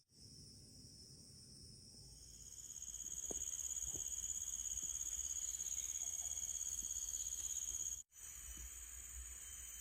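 Night insects trilling in a steady, high, fast-pulsing drone that swells about two to three seconds in. It cuts off abruptly about eight seconds in, and a fainter insect chorus carries on.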